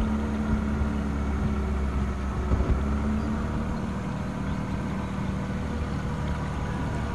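Boat engine running steadily at an even speed, with a couple of brief knocks about two and a half seconds in.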